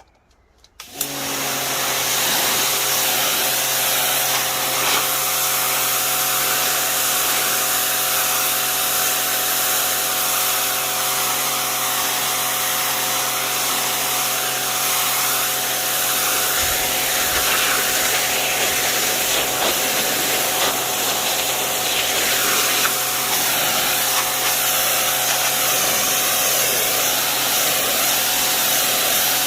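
Wilks USA RX 550i electric pressure washer kicking in about a second in and then running steadily: a constant motor hum under the loud hiss of the water jet.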